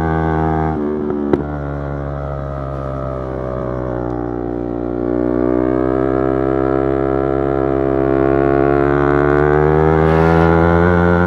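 Yamaha YZF-R3's parallel-twin engine under way, with a break in the note and a sharp click near the start, as of a gear change, then a steady note that climbs slowly as the bike accelerates.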